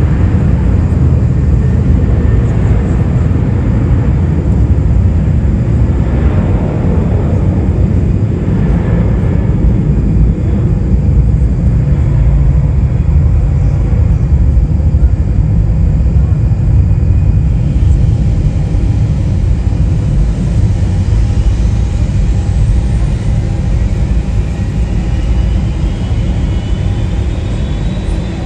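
Jet airliner engines at close range: a loud, steady rumble, with a faint rising whine coming in over the last several seconds.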